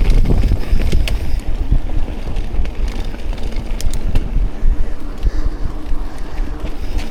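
Wind buffeting an action camera's microphone over the low rumble of a mountain bike rolling on a dirt trail, with scattered sharp clicks and rattles from the bike.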